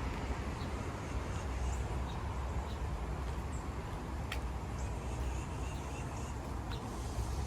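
Outdoor background: a steady low rumble, with a few faint high chirps and a single sharp click about four seconds in.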